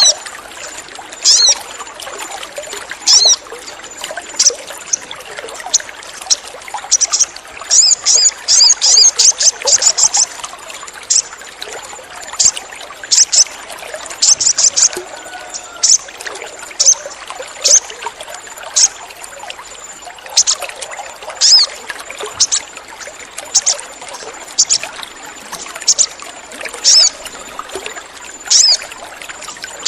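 Sogon sunbird calling: short, sharp, high chips repeated every second or two, with quick runs of chips about seven seconds in and again around the middle, over a steady trickling water sound.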